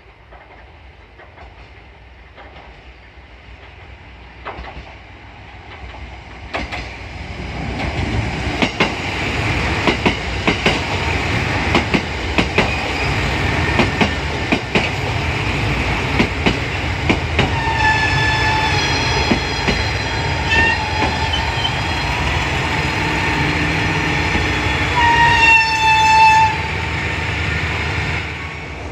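A train comes in on the rails, swelling from faint to loud after about six seconds, with wheels clicking over rail joints. In the second half, high steady squealing tones come and go, the loudest near the end.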